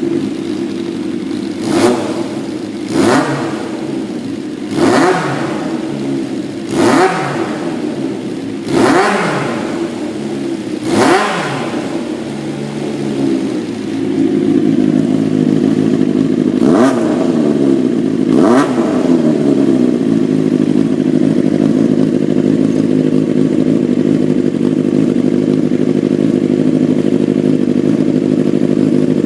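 Honda CBX400F's air-cooled inline-four running with eight quick throttle blips, each revving up and dropping straight back to idle. From about halfway through it runs steadily and a little louder. It revs freely and runs smoothly, without abnormal noises.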